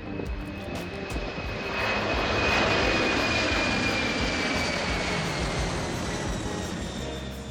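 Jet airplane passing overhead: the engine noise swells to its loudest about two to three seconds in, then fades, while a high whine slowly falls in pitch as it goes by.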